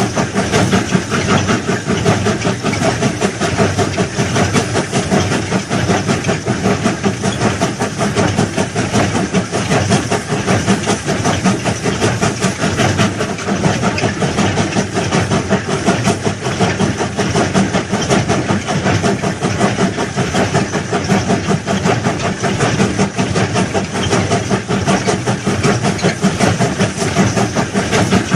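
Heavy railway track-laying machinery running with a fast, even pulsing, its engine working steadily.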